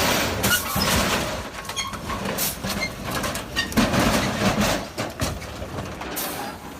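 Vehicle noise with many uneven knocks and rattles.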